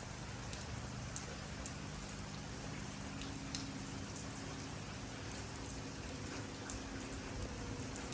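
Steady rain falling, an even hiss with single drops ticking sharply here and there. A faint low hum runs underneath.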